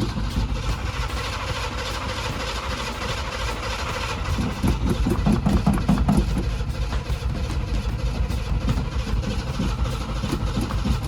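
V8 engine of a 1977 Chevy K10 pickup being started cold: it turns over with a fast, uneven pulse and swells louder about four to six seconds in as it tries to catch. The engine is cold-blooded and needs warming up.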